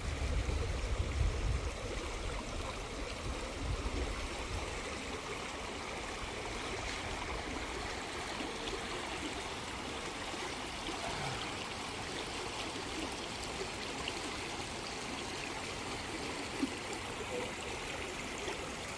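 Steady rush of a clear stream or waterfall, an even hiss of flowing water. A low rumble sits under it for the first several seconds, then fades out.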